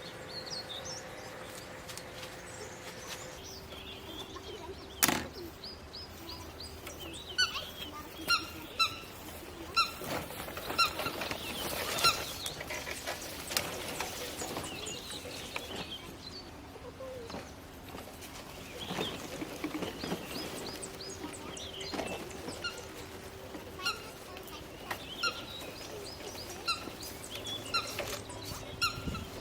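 Small birds chirping over and over in short high notes, with a sharp click about five seconds in and several knocks in the seconds after.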